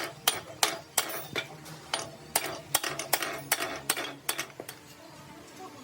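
Rapid, irregular metal-on-metal strikes, about three a second, like a hammer tapping on steel parts. The strikes stop shortly before the end.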